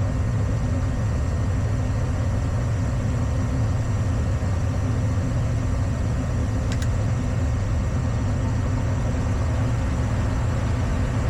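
Gas furnace firing in its heat cycle: a steady low hum from the draft inducer motor and burners, with one faint click about seven seconds in.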